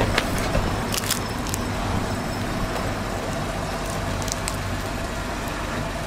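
Car engine idling steadily, with a few short light clicks over it.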